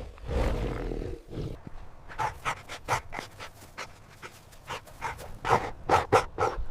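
A big cat's low roar trails off in the first second or so. Then a dog pants in quick, short, evenly spaced breaths.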